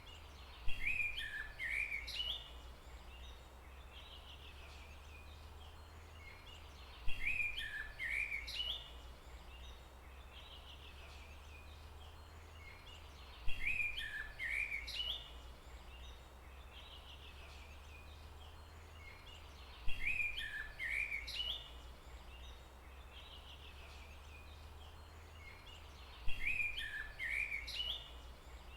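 A bird call: the same phrase of quick notes, about two seconds long, repeated five times at even spacing of about six seconds, over a steady low rumble.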